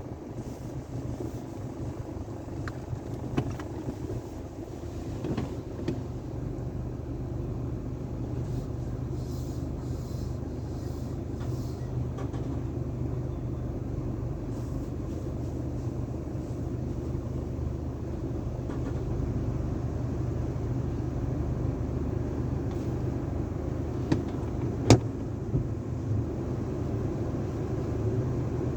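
Sonny's car wash tunnel machinery running, a steady low mechanical hum under a rushing wash noise that slowly grows louder, with a sharp knock about 25 seconds in.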